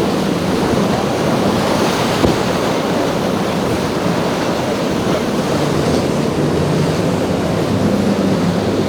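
Rough surf and wind rushing steadily, with wind buffeting the microphone and the low hum of boat engines underneath.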